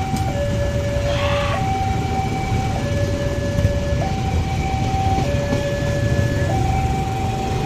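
Two-tone warning siren switching back and forth between a low and a high note about once a second, over a steady low rumble. A short hiss sounds about a second in.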